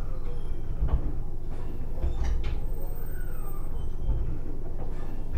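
Inside an Abukuma Express AB900-series electric train: a steady low hum and rumble, with a few short knocks and clunks.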